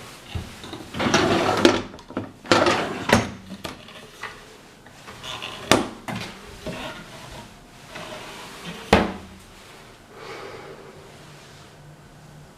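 Knocks and clatter of cupboard doors and drawers being opened and shut, with sharp clicks about three, six and nine seconds in.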